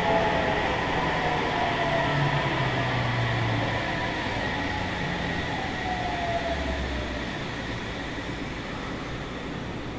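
Sendai Subway 1000N-series train heard from inside the car while slowing down: the running rumble and motor tones slide down in pitch and fade steadily, with the air conditioning running.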